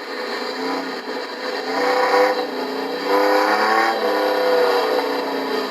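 Racing truck engines running at speed on the track, the sound swelling and fading about three times as trucks go past.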